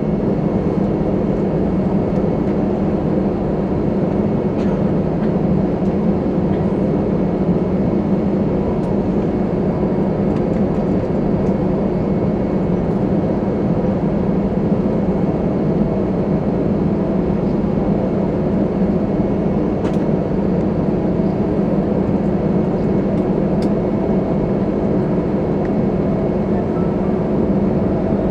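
Cabin noise inside an Airbus A320-214 on the ground after landing: the CFM56 engines and cabin air running as a steady low drone with a faint steady whine above it. It grows louder in the first second, then holds steady.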